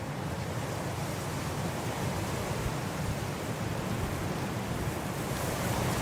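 Blizzard wind blowing in a steady, dense rush of noise, swelling slightly and growing brighter near the end.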